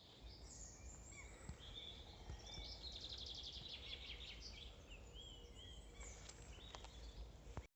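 Faint birdsong: a fast trill of evenly repeated high notes a few seconds in, with scattered short chirps around it, over a quiet outdoor hush.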